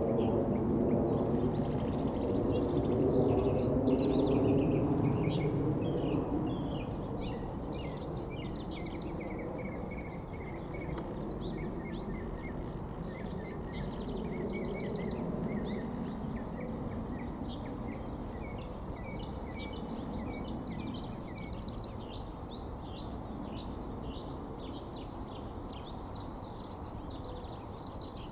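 Small birds chirping in many short, quick notes, over a low outdoor rumble that fades over the first several seconds.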